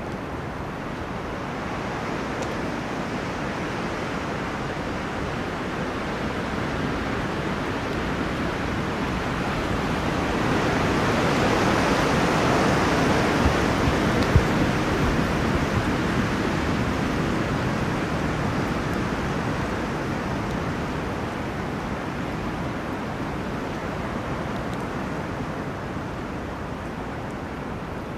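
Wind rushing through forest trees as a long gust. It swells to a peak about halfway through and slowly dies away, with two brief clicks near the loudest point.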